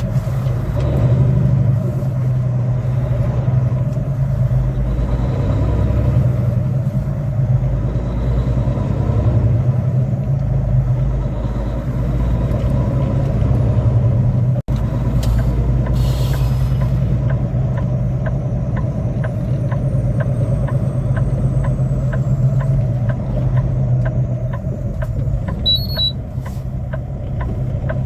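Semi truck's diesel engine running steadily while driving, heard from inside the cab. In the second half a regular ticking comes in at about one and a half a second, with a short hiss shortly before it and a short high beep near the end.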